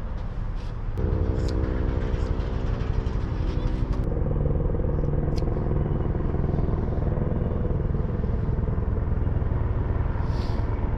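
Electric hair clippers buzzing steadily, switched on about a second in, with a slight change in pitch about three seconds later, over a constant low engine rumble.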